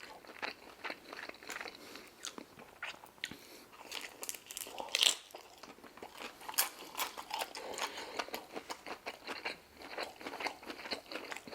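A person chewing crunchy fried food close to the microphone: irregular small crunches and mouth clicks, with one louder crunch about five seconds in.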